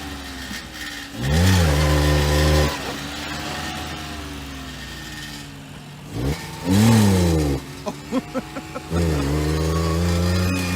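Kei mini truck's three-cylinder engine revved hard in low-range four-wheel drive in a burnout attempt: revs climb sharply and hold, drop away, climb again, a few quick blips of the throttle, then held high once more near the end.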